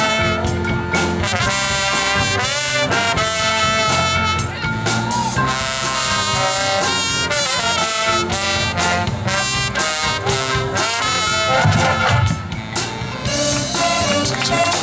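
Marching band playing, brass section (trumpets and trombones) carrying held and moving melodic lines over percussion.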